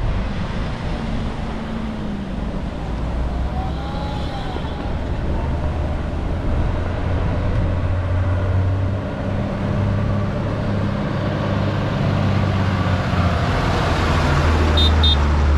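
Motor vehicle engines running with a steady low hum, the noise building as a vehicle passes close near the end. Two short high beeps sound just before the end.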